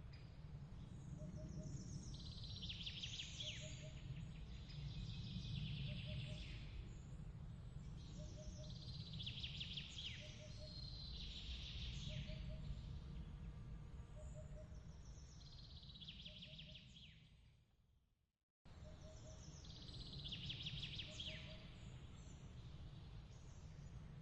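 Autumn night ambience soundtrack: a steady low rumble under soft, high chirping that comes in bursts every few seconds, with a faint triple chirp repeating about every second and a half. About 18 seconds in, everything fades out to silence and cuts back in abruptly half a second later, a loop point in the track.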